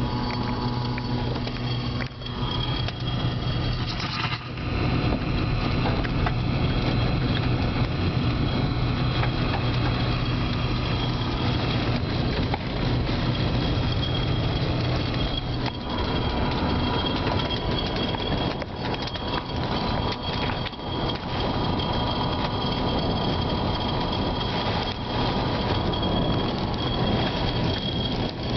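Loud, steady roar of storm wind and rain, a dense rumbling noise with slight dips and swells.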